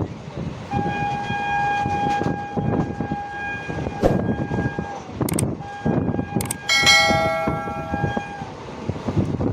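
Indian Railways train horn sounding two long steady blasts over the rumble of a moving train. Another horn with a fuller, richer note overlaps the second blast briefly, and a few sharp knocks come between the blasts.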